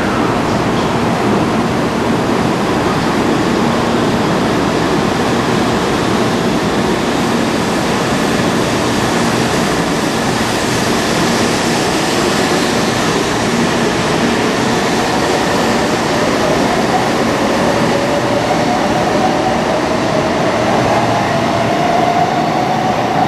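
Taiwan High Speed Rail train running: a loud, steady rumble and rush of noise, with a motor whine that rises in pitch over the last several seconds as the train gathers speed.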